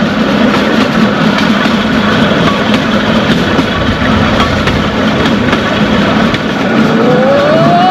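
Excursion train running: a steady rumble with fine rattling and clicking from the rail car. A rising tone comes in near the end.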